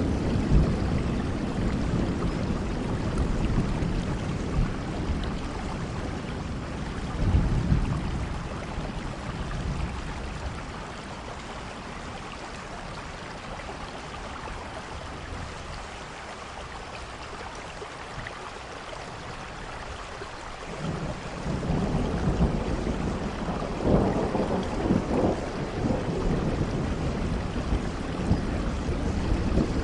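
Steady rain with rolling thunder. The low rumbles swell near the start and again after a few seconds, fade to rain alone for about ten seconds, then build again with louder peaks toward the end.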